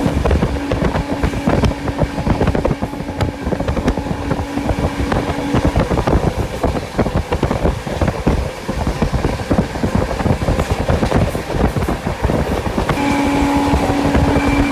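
Express passenger train running on the rails: a steady rumble with dense rattling and clicking of wheels over the track. A steady humming tone sits over it for about the first six seconds and returns near the end.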